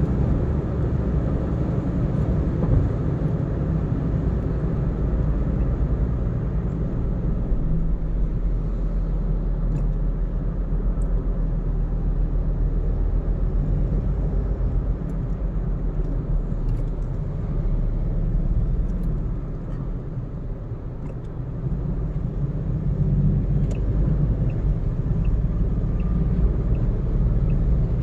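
A car driving at road speed: a steady low rumble of tyres and engine, easing briefly around the middle.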